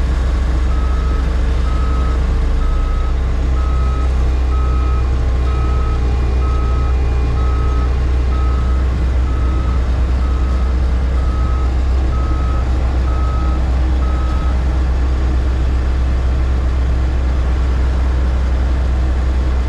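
Heavy engine running steadily while a vehicle's reversing alarm beeps about once a second, stopping about three quarters of the way through.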